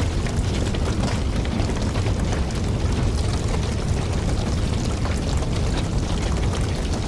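Wood campfire burning, a steady low rumble of flames with frequent sharp crackles and pops from the logs.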